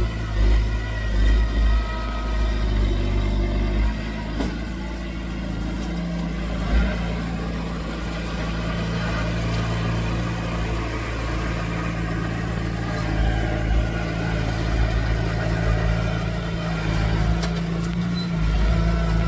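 Heavy diesel engine of earthmoving machinery running under load, uneven for the first few seconds and then settling into a steady drone.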